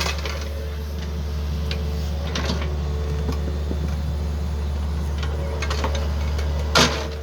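Yanmar ViO50 mini excavator's diesel engine running steadily, with scattered clanks and knocks from the bucket and arm as it digs; one louder knock near the end.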